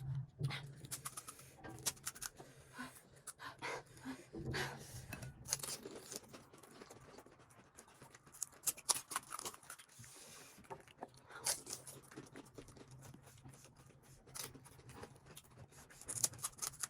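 Mouth sounds of eating spicy pani puri: scattered crunches and wet chewing, with quick huffing breaths against the chilli heat, over a low steady hum.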